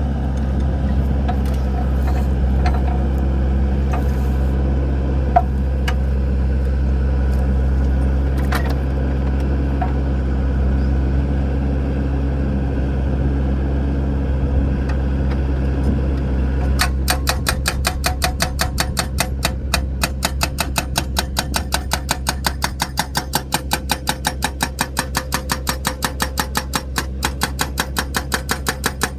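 Excavator diesel engine running steadily, with a few sharp knocks and cracks in the first half as wood is worked. About two-thirds of the way in, a fast, even clicking of roughly seven a second joins the engine.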